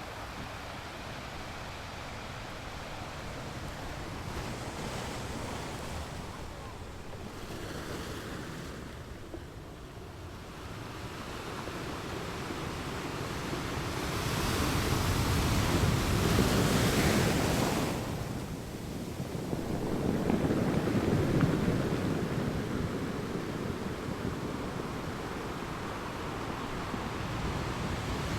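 Ocean waves breaking on a beach, in swells of hissing surf: two larger waves crash and wash up in the second half, with wind buffeting the microphone.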